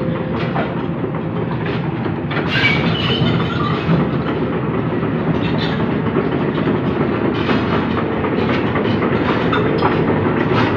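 Heavy diesel machinery running steadily, a continuous rumble with scattered metallic clanks and knocks.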